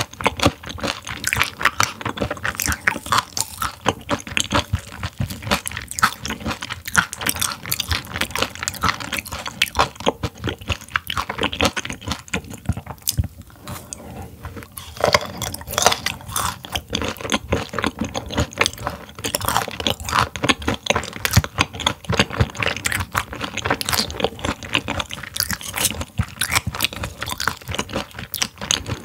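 Close-miked chewing and crunching of partly frozen raw silver pomfret sashimi, a dense run of crisp, crackling bites. There is a short lull about halfway through before the crunching picks up again.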